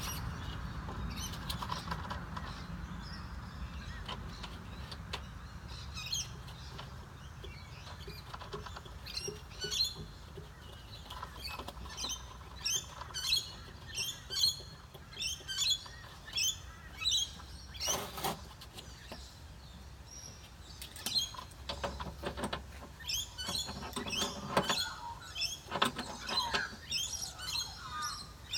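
Small birds chirping in a long run of short, high chirps. Under them is a low steady hum that fades over the first few seconds, and there is a brief clatter about eighteen seconds in.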